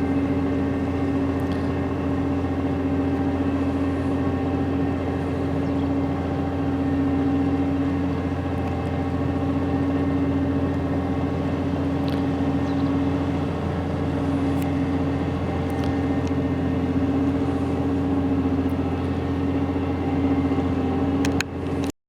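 An engine running steadily: a low drone with several held hum tones and no change in speed. It cuts off suddenly near the end.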